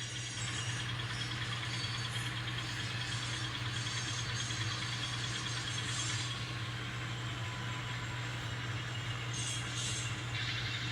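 N scale model diesel locomotives running slowly while shoving a string of hopper cars, a steady hum under a light higher rattle of wheels on the track.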